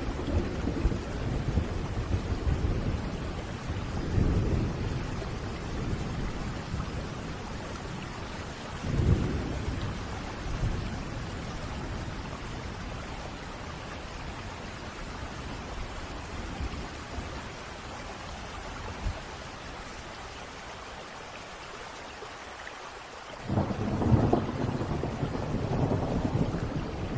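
Steady rain with rolling thunder. Low rumbles in the first few seconds and a short sharp one about nine seconds in, then a quieter stretch of rain, and a loud rumble of thunder breaking in suddenly near the end.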